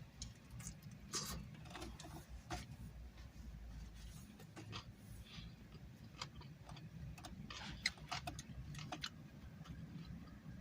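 Faint, irregular wet clicks and smacks of someone chewing food close to the microphone, over a low steady hum.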